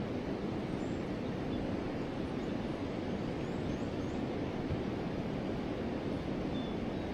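River water flowing steadily, a constant low rushing sound, with a few faint, high, brief bird chirps over it.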